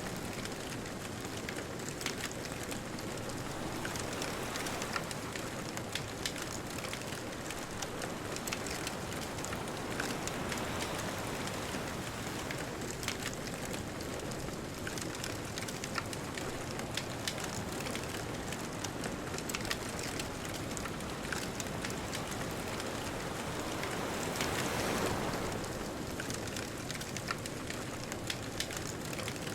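Bonfire crackling with frequent sharp pops over a steady hiss of distant ocean surf; a louder wave swells and washes in near the end.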